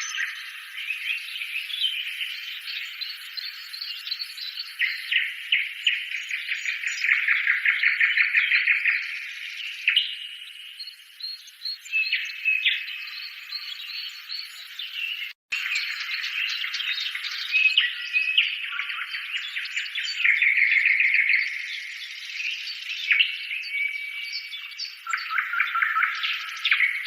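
Birdsong: several birds chirping and trilling continuously, thin-sounding with no low sounds, broken off for an instant about fifteen seconds in.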